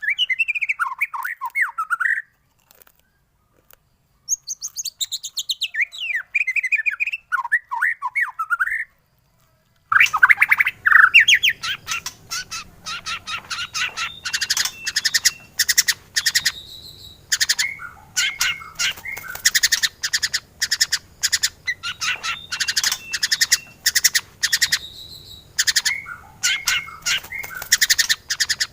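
White-rumped shama singing loud whistled phrases that glide up and down. After a sudden second of silence about ten seconds in, the song carries on as fast chattering and sharp clicking mixed with whistles.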